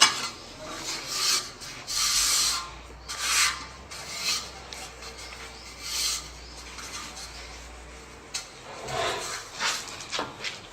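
Tile-setting work: a series of irregular scraping strokes from a tool working against mortar and tile, opening with a sharp knock.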